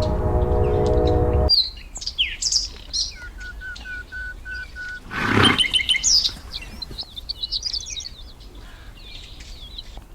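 A loud noisy sound with a steady hum cuts off abruptly about a second and a half in, giving way to birds chirping and singing. Among the calls are a run of about eight short, evenly spaced notes and one loud harsh call about five seconds in.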